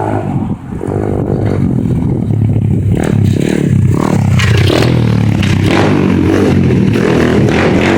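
Pit bike's small motorcycle engine running and revving, loud and steady, with rough crackly noise over it from about three seconds in.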